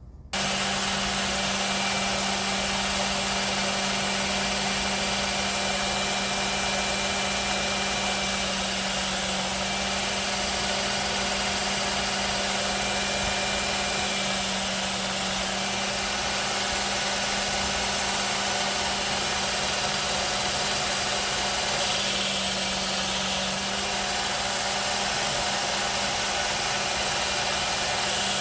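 Work Sharp Ken Onion Elite belt knife sharpener switched on about half a second in and running steadily, its medium abrasive belt spinning with a steady motor hum while a pocketknife blade is sharpened at 17 degrees.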